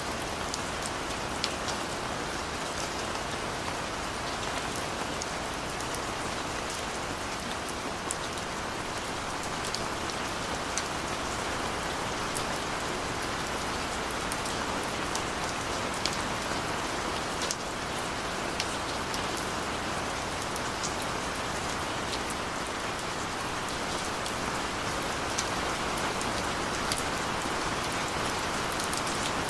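Steady rainfall, an even hiss with scattered sharp drops landing close by. No thunder is heard.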